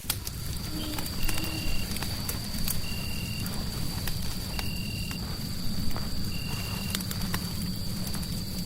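Fireplace crackling with scattered sharp pops over a steady low rumble. A short, high-pitched chirp repeats about every second and a half, and a thin, steady high tone holds throughout.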